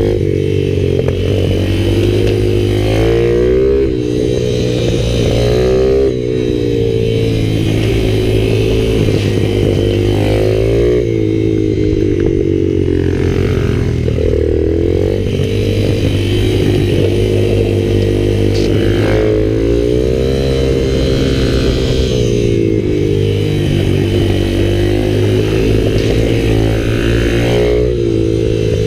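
Pit bike's single-cylinder four-stroke engine running hard on a track lap, its note climbing again and again as it accelerates out of corners and dropping off between.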